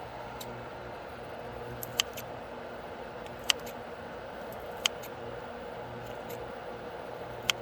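Campfire burning, a steady low rush with four sharp, irregular pops from the wood over a few seconds.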